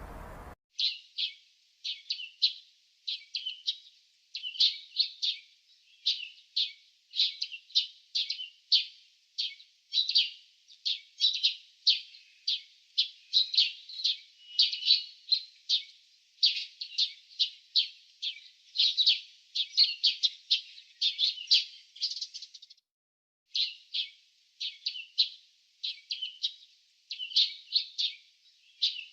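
Small birds chirping and twittering in quick, closely packed calls, high-pitched, with a short pause about three-quarters of the way through.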